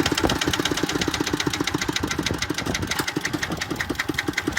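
Tractor engine running steadily with an even, rapid knocking beat of about six or seven pulses a second.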